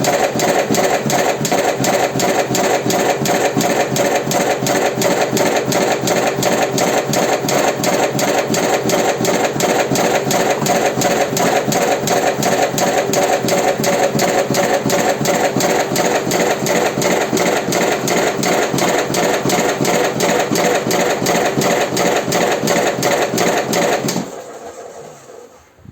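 Automatic electric cigarette-rolling machine running, its filling mechanism cycling in a fast, even mechanical rhythm. It stops near the end and winds down over about a second.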